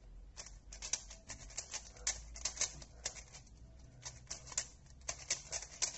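A new mirror cube, lubed from inside, being turned by hand: quick, irregular plastic clicks of its layers rotating.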